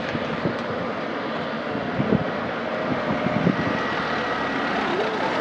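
Strong wind buffeting the microphone with irregular low thumps over a steady rush of wind and rain. An airliner's engines are heard beneath it, with a faint high whine from about four seconds in.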